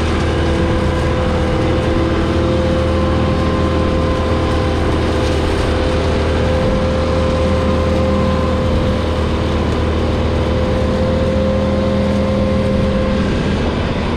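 Massey Ferguson 6715S tractor's 4.9-litre four-cylinder diesel running steadily at constant revs, with a steady whine above the engine note.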